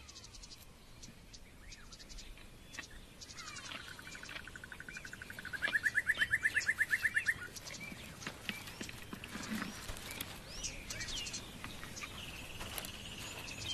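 Outdoor ambience of birds calling, with scattered chirps. One long rapid trill swells and stops suddenly about halfway through, and a shorter, higher trill comes near the end.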